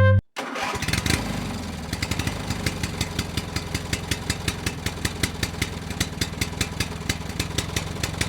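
A small engine idling, with an even, rapid ticking pulse of about five or six beats a second.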